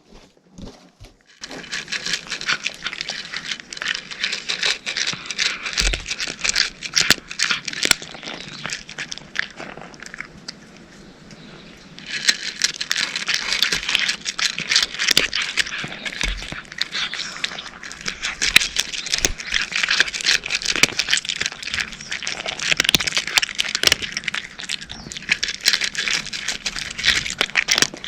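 Cats crunching dry kibble, a dense run of small crisp crunches that eases off for a couple of seconds about ten seconds in and then picks up again.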